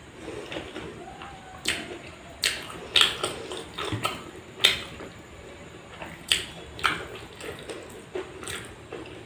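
Close-up wet chewing and lip smacking while eating: a dozen or so sharp, moist clicks at an irregular pace.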